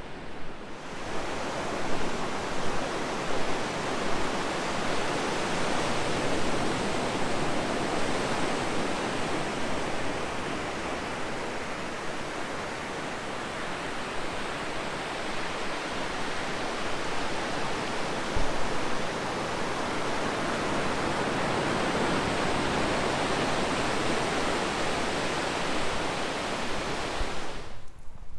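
Pacific Ocean surf: a steady rush of waves breaking and washing in, swelling and easing in loudness.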